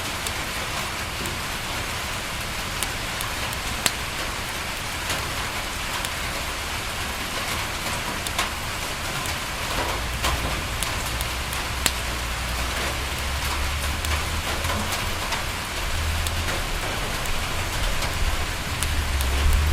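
Steady rain falling on a window, with scattered sharp crackles from a wood fire. A low rumble comes in about halfway through and grows stronger near the end.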